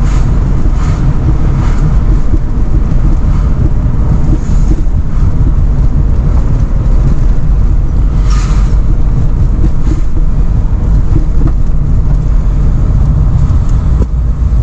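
Porsche 930 Turbo's air-cooled, turbocharged flat-six running as the car drives, heard inside the cabin as a loud, steady low rumble of engine and road noise.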